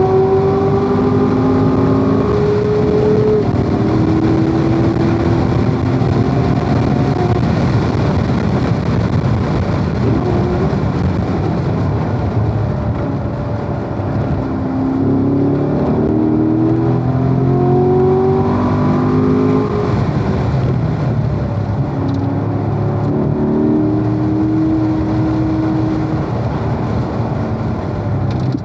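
Corvette's V8 engine at racing speed, climbing in pitch under full throttle and dropping at the gear changes several times, with a stretch of lower steadier engine note between the pulls.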